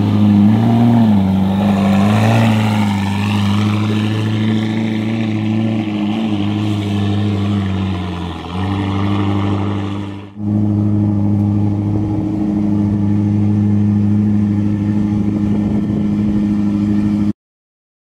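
Novitec-tuned Ferrari SF90 Spider's 4.0-litre twin-turbo V8 running at low revs as the car moves slowly, with a couple of small rises in pitch in the first few seconds and a brief dip about eight seconds in. The running is steady after that and cuts off suddenly near the end.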